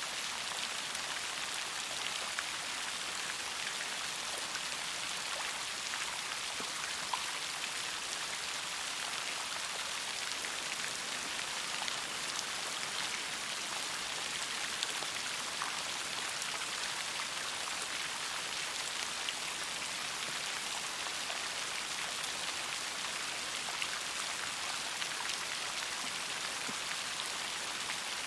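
Steady rain falling, a continuous hiss flecked with many small drop ticks.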